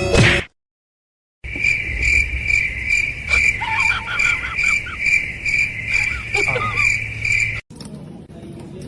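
A cricket chirping: a high tone pulsing steadily about twice a second. A few short sliding squeaks sound over it about halfway through, and the chirping cuts off suddenly near the end.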